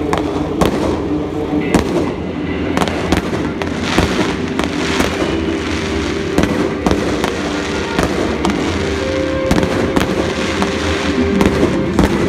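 Fireworks display: aerial shells going off in an irregular string of sharp bangs, several a second, with music playing underneath.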